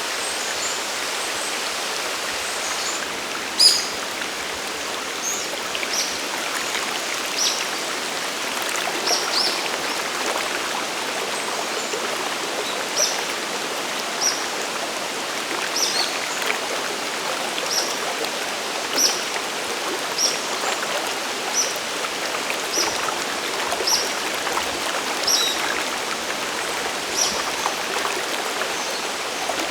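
Steady rushing water of a mountain waterfall and stream. A small bird's short high chirp repeats about every second and a half through most of it. A single sharp, louder tick comes about three and a half seconds in.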